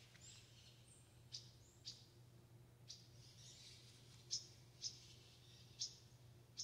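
Faint, short, high bird chirps, about seven at irregular intervals, with a few thin whistled notes early on, over a low steady hum.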